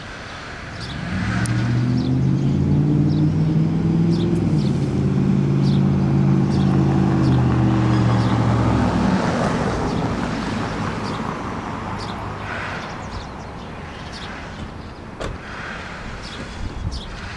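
A motor vehicle's engine runs with a steady low hum, loud from about a second in, then fades away around halfway through into a hiss like tyres on the road. Small birds give short high chirps throughout.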